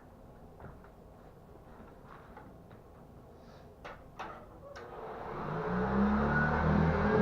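A few light clicks and knocks, then the Hoover 1060 vacuum cleaner's motor is switched on about five seconds in, spins up and settles into a steady run.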